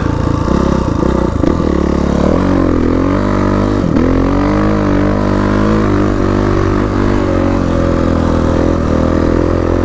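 Dirt bike engine running under way, its revs falling and climbing with the throttle, with a deeper dip and pickup a few seconds in.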